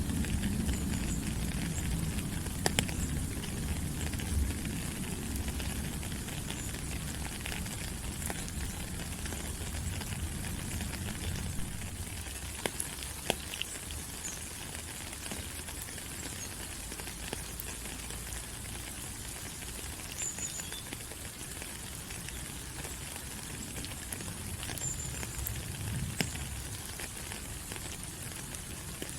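Steady rain falling on rainforest leaves, a continuous hiss with many single drops ticking. A low rumble underneath fades away over the first dozen seconds and swells briefly again later on.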